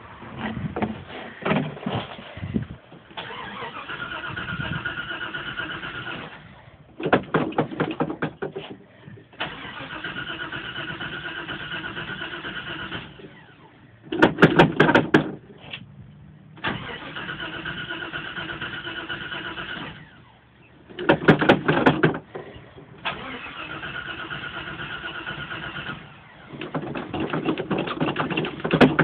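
1989 Jeep Grand Wagoneer's AMC 360 V8 being cranked on the starter again and again from cold. Each crank lasts three or four seconds and ends in a short louder burst of firing, but the engine does not stay running.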